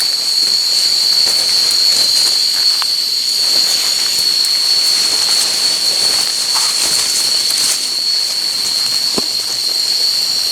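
Loud, steady high-pitched drone of jungle insects in chorus, with a few faint taps and rustles.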